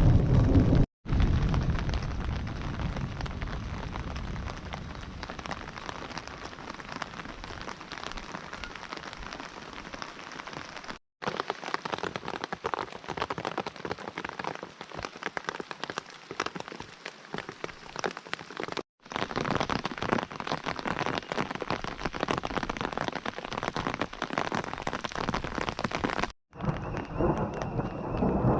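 Steady rain falling, an even hiss of many drops, broken by four brief silent gaps.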